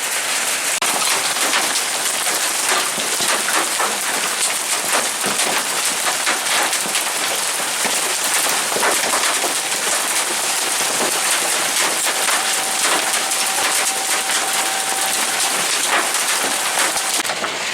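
Steady downpour of rain, with many sharp ticks of drops striking hard surfaces. A faint steady tone sounds through the middle stretch.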